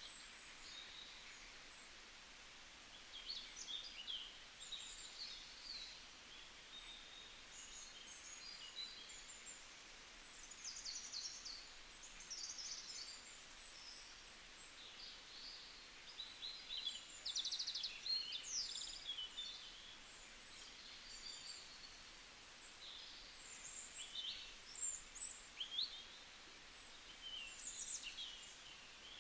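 Several small birds chirping and trilling, short high calls overlapping throughout, over a faint steady hiss of forest ambience.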